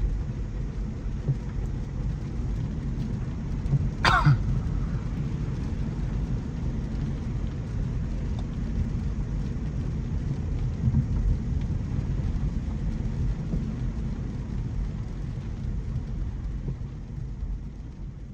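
Inside the cabin of a 2025 Mercedes-Benz C300e driving in the rain: a steady low road-and-tyre rumble with rain on the car. A short, sharp noise comes about four seconds in, and the sound fades out near the end.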